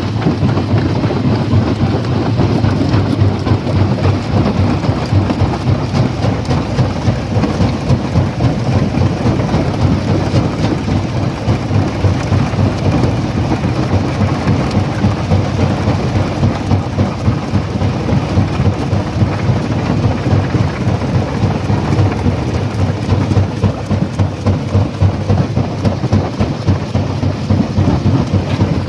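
Rock crusher running under load: a steady low rumble laced with constant rattling and cracking as stones are broken.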